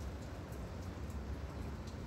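Steady rain: an even hiss with a low rumble underneath and faint scattered drip ticks.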